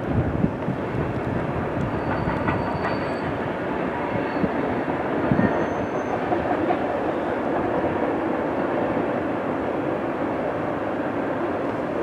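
Freight train cars rolling past: a steady rumble of steel wheels on rail, with occasional clicks over the rail joints and faint, brief high squeals.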